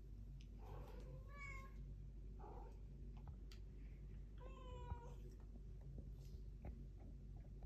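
Domestic cat meowing three times, the first meow the longest, with a few faint ticks between the calls.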